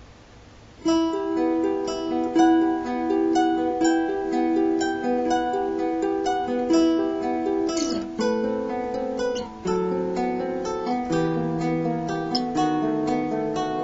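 Music: a plucked acoustic guitar playing a melody of quick, separate notes, starting abruptly about a second in after near silence.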